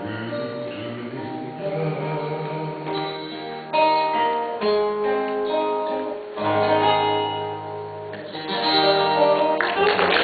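Acoustic band playing the closing bars of a slow ballad live: strummed acoustic guitar chords with held notes ringing over them. Audience applause breaks out right at the end.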